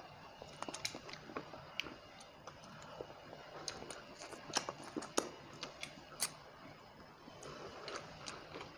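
Close-miked eating of fried rohu fish and rice by hand: irregular wet mouth clicks and smacks of chewing, a few of them sharper than the rest.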